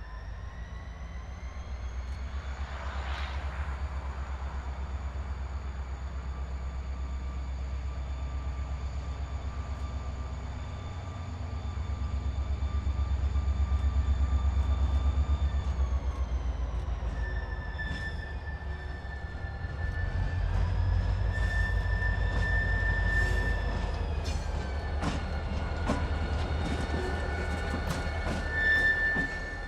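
A diesel freight locomotive running with its train of cars on rail, its engine rumble swelling about halfway through and again later, while steel wheels squeal in high, steady tones that slide in pitch. Sharp clicks and knocks from the wheels and cars come in the last few seconds.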